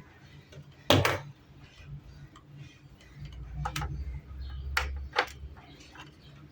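Several sharp clicks and knocks. The loudest comes about a second in, and three more follow in the middle, over a low rumble.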